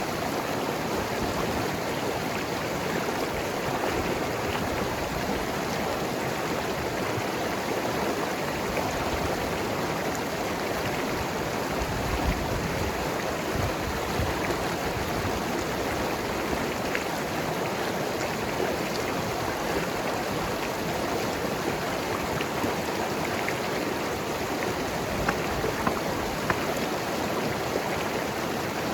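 Mountain river rushing and gurgling over rocks in a steady flow, with a few small splashes now and then.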